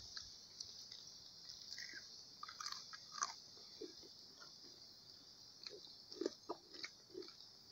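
Close chewing and crunching of crisp fried fish, in scattered small bites with soft clicks, over a steady high hiss.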